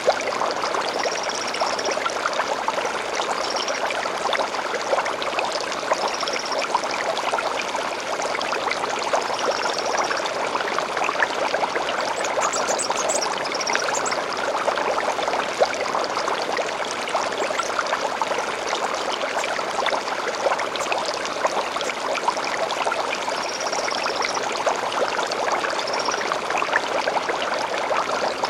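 A gentle stream flowing steadily, a continuous babble of running water. Faint, short high bird chirps come now and then over it, with a quick trill about halfway through.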